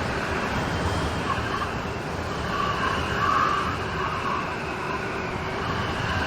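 Steady heavy rain falling, an even hiss that swells a little about three seconds in.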